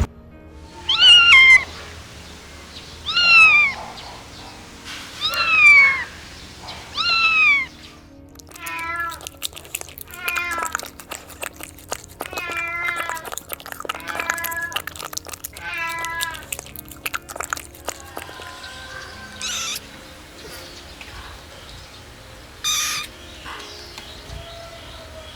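Kittens meowing: four loud, high meows that fall in pitch in the first eight seconds, then a run of quavering, wavering mews, and two more calls near the end, over soft background music.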